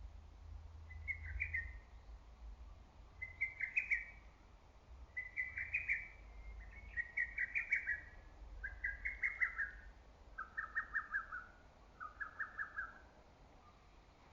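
Lesser cuckoo singing: about seven quick phrases of rapid stuttering notes, one every couple of seconds, the later phrases sitting lower in pitch.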